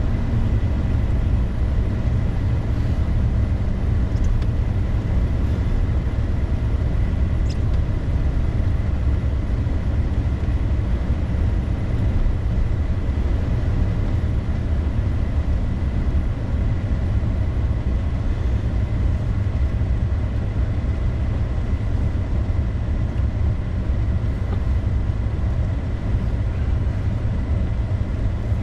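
Steady low rumble of a vehicle driving on a snowy road: engine and tyre noise with no change in pace. A faint, thin steady high tone runs through it.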